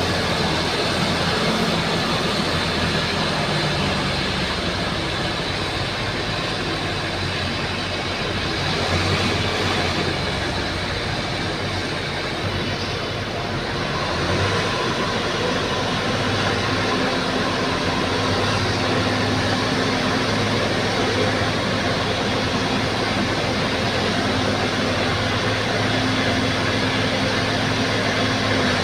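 Bulldozer's diesel engine running steadily, a low drone whose pitch shifts a little a few times.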